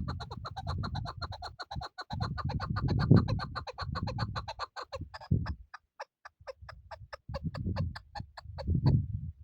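Chukar partridge calling: a fast run of short clucking notes, about eight a second, that slows to a sparser series of about three a second halfway through. A low rumble comes and goes underneath.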